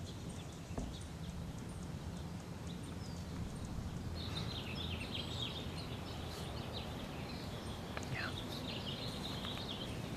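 Birds chirping, with many short high calls starting about four seconds in, over a steady low background rumble.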